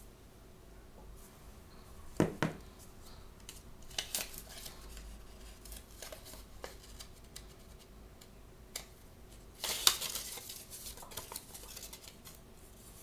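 Hands opening and handling blind-bag toy packaging: two quick knocks about two seconds in, then scattered clicks and short scratchy bursts of tearing and crinkling, the longest near the ten-second mark.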